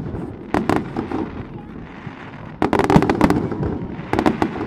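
Aerial fireworks shells bursting in three quick volleys of sharp bangs, about half a second in, near the middle and near the end, with a rolling echo between.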